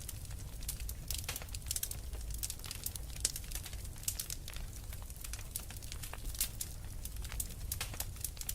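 Wood fire crackling in a fireplace: many quick, irregular pops and snaps over a low steady rumble.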